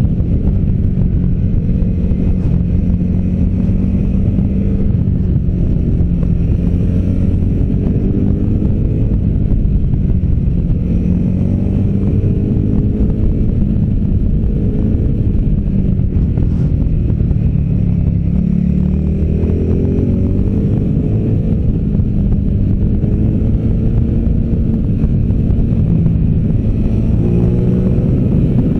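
V-twin adventure motorcycle engine under hard riding, the revs climbing and dropping again and again as the bike accelerates out of bends and slows into them, with wind and road noise underneath.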